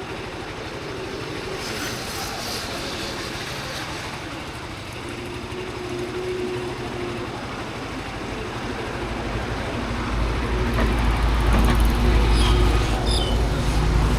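Motorcycle engine running on the move, a steady drone with a low rumble that grows louder from about eight seconds in.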